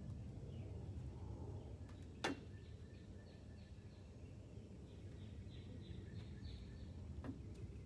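Quiet outdoor ambience with a steady low rumble, and a bird calling a rapid series of short high chirps, about three a second, through the middle and latter part. A single sharp click about two seconds in, and a fainter one near the end.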